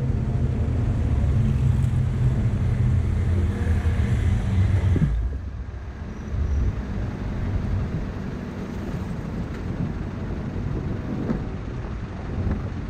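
Road traffic in a city street: a motor vehicle's engine runs close by for about the first five seconds, then drops away abruptly, leaving steady, quieter traffic noise.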